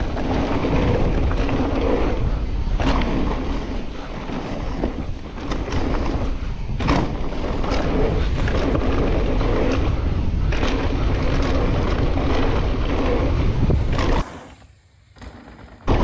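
Mountain bike descending a dry, dusty trail: wind buffeting the microphone over the tyres rolling on dirt and the bike rattling, with sharp knocks from rocks and roots. Near the end the noise drops away suddenly for about a second and a half, then comes back.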